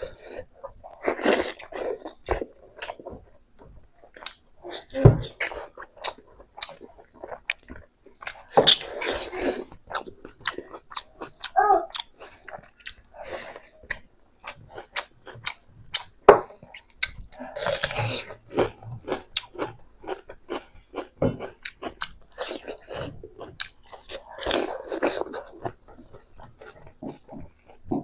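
A person eating pork close to the microphone: chewing and biting with crunching and many short, irregular mouth clicks.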